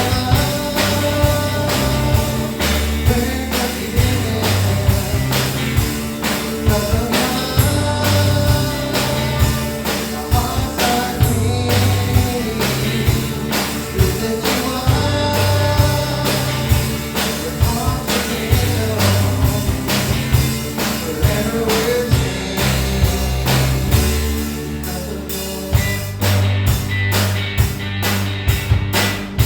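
A full band playing a rock-style worship song with a steady drum beat, bass and electric guitar, and voices singing.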